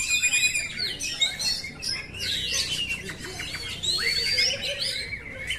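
Oriental magpie-robin (kacer) singing a continuous, varied song of quick whistles, rising and falling glides and rapid trills.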